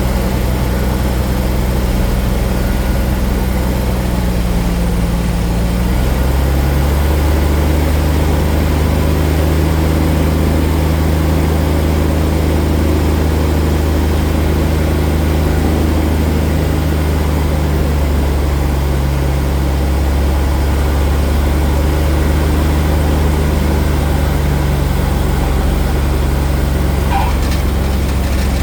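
Cessna Bird Dog's six-cylinder piston engine and propeller running steadily; its tone drops and deepens about six seconds in as the power setting changes.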